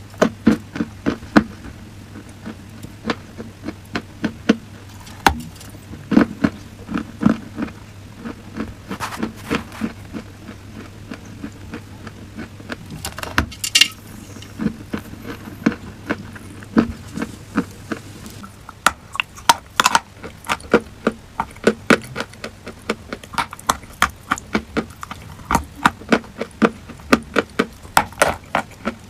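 Dry chalk and clay crunching in many short, sharp crunches, a few every second in an irregular run, over a faint steady low hum.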